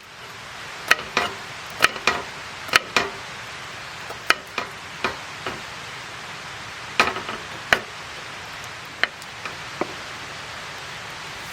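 Wood campfire crackling: irregular sharp pops and snaps, sometimes in quick pairs, over a steady hiss.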